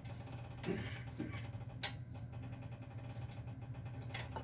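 Faint clinks and knocks of a wok and a small container being handled while chicken gravy is drained, over a steady low hum.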